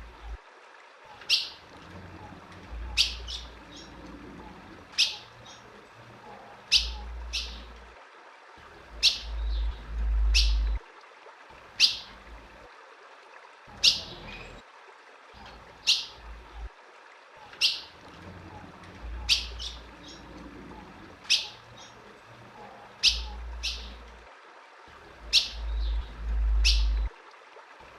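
Female ultramarine grosbeak (azulão) calling: a short, sharp chirp about every two seconds, each a quick downward note. A low rumble sits under some of the calls.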